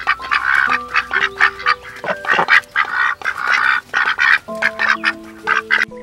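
Domestic ducks quacking: many short quacks in quick succession, over light background music.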